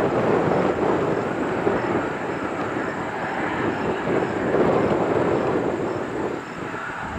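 Beechcraft King Air's twin turboprop engines at takeoff power as it departs, a steady rushing drone that eases off a little about six seconds in.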